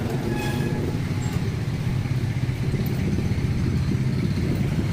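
Steady low rumble of a motor vehicle engine running, with a few faint metallic ticks about half a second in.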